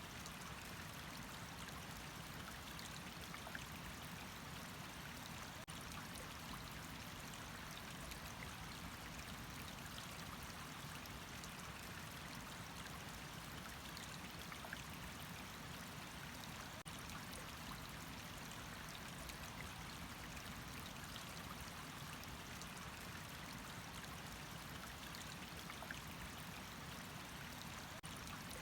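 Water running steadily: an even, faint rush with small droplet ticks scattered through it.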